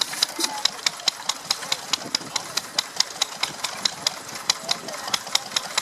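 Vintage stationary engine running steadily, with a sharp, regular ticking about five times a second.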